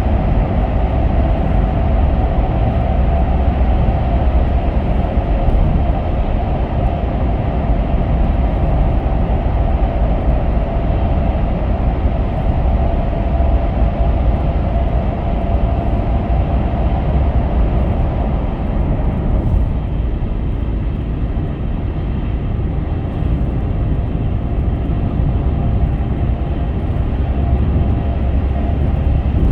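Car driving at highway speed: a steady low road and tyre rumble with a faint steady hum above it. The hiss eases a little about two-thirds of the way through.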